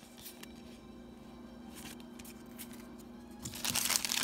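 Soft handling of cards and packaging, a few light taps and rustles, under a faint steady hum. Near the end comes a loud burst of crinkling, a foil booster pack being torn open.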